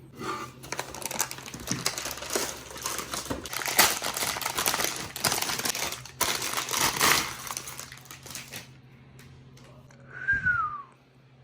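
Plastic packaging crinkling and rustling, with dense quick crackles and clicks, for about nine seconds, while a computer part is handled; it then goes much quieter, with a brief falling squeak near the end.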